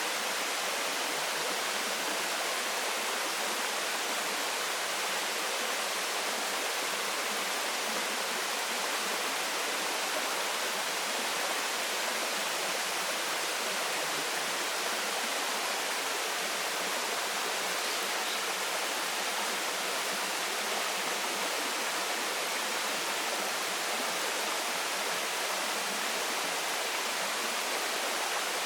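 Waterfall splashing steadily: an even, unbroken rushing hiss of falling water, weighted toward the higher pitches with little deep rumble.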